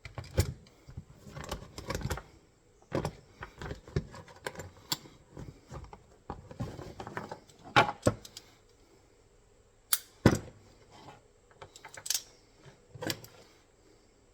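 Steel MB-550 foothold trap being handled as it is reset for a pan tension check: a string of irregular metal clicks, clinks and knocks, with a few sharper clacks, the loudest about eight and ten seconds in.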